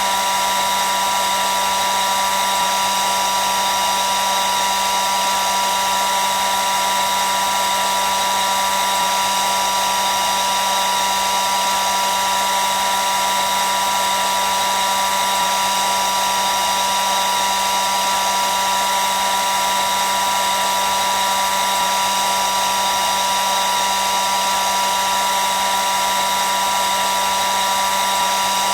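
Hair dryer running continuously: a steady rush of air with a constant motor whine, unchanging throughout.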